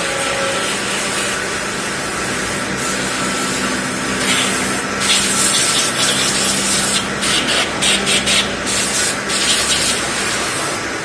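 Machine shop noise around a running CNC machine: a steady hum, joined from about four seconds in by repeated short hissing bursts.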